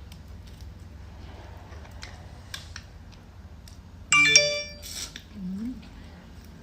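A sudden bright ring with several tones together, about four seconds in, fading away within a second, like a struck metal chime. A short rising hum follows.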